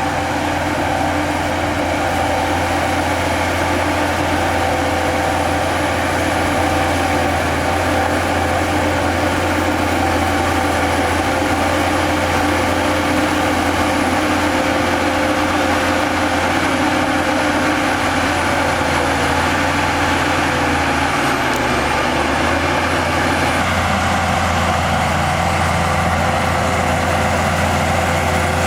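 Heavy construction machinery engine running steadily under work, a loud continuous low drone with held tones above it, shifting slightly in pitch and load about 22 to 24 seconds in.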